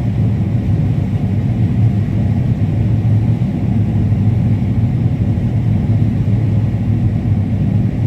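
Combine harvester running steadily while cutting corn: a constant low drone with an even hum and no changes.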